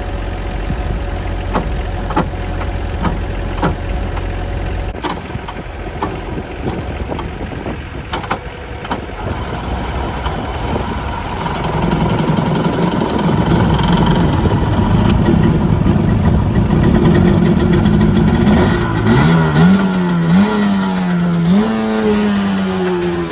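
Old jet ski engine, primed with a little gas, catching about halfway through and running rough, then revved several times near the end, its pitch rising and falling with each blip.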